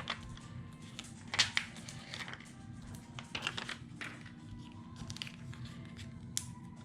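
Scattered rustling and crinkling of paper handled at a craft table, with short clicks and ripping sounds like adhesive backing being peeled, over quiet background music.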